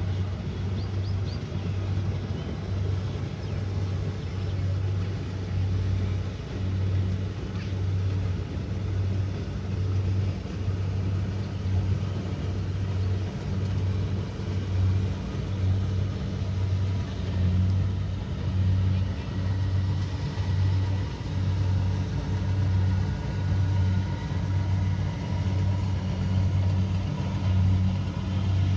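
Kubota DC70 Pro combine harvester's diesel engine running steadily, its low hum swelling and fading about once a second.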